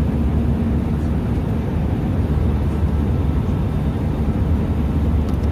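Cabin noise inside an Airbus A319-112 with its CFM56 turbofans running: a steady, loud low rumble of engines and airflow.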